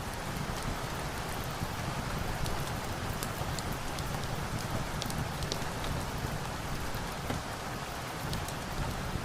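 Steady rain falling, an even hiss with scattered small sharp ticks throughout.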